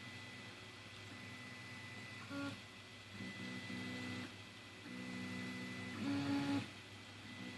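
Anet A8 3D printer printing, its stepper motors sounding in pitched bursts that change note as the head moves, the loudest about six seconds in, over a steady hum and a thin high whine.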